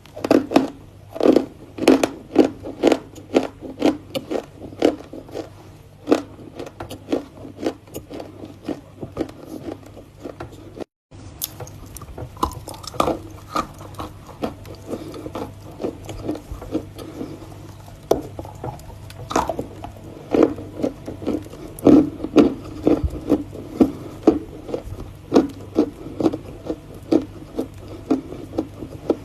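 Close-up biting and crunching of Volokonovka edible chalk: a run of sharp, dry crunches, often about two a second, over a steady low hum, with a brief break in the sound about eleven seconds in.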